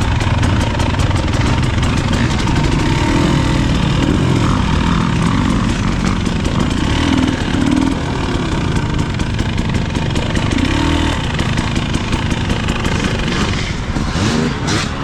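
Husqvarna TE300 two-stroke dirt bike engine revving up and down over heavy wind and ground noise, with frequent short clicks and knocks.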